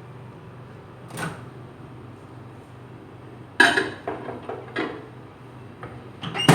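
Microwave oven humming steadily, then a sharp click of its door opening about three and a half seconds in, followed by the clatter of a bowl being handled. Another sharp knock comes near the end.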